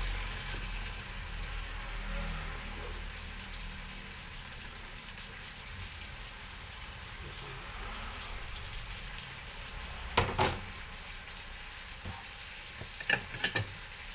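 Sliced onions sizzling as they fry in oil in a pan. There are a few sharp knocks: one pair about ten seconds in and a quick cluster near the end.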